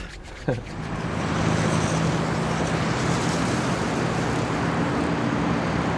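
A motor vehicle's engine and road noise swelling in, holding steady with a low engine hum, then fading away.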